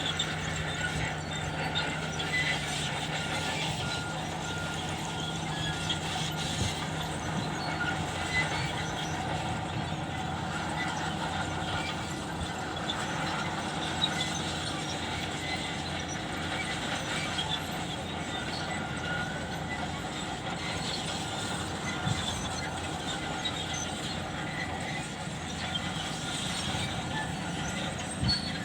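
Heavy earthmoving machinery, a bulldozer and a road compactor, running steadily with a low diesel hum. A repeated beep, like a reversing alarm, sounds in the first few seconds.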